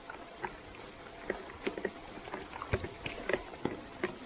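Steady hiss of rain with scattered sharp taps and knocks from play on a wet artificial-turf football pitch.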